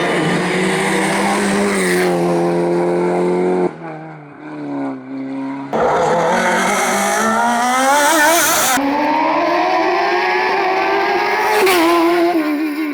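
Competition cars' engines at high revs, accelerating hard with the pitch climbing, in several short shots with sudden changes between them; one stretch a little before the middle is quieter and more distant.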